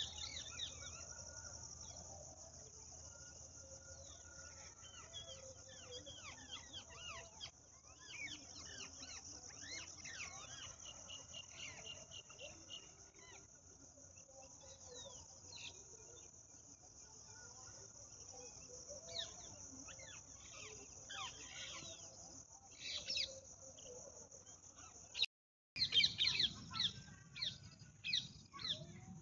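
Many birds chirping and calling in short, quick notes over a steady high-pitched insect drone, as of crickets. About 25 seconds in the sound drops out briefly, and after it the bird calls are louder.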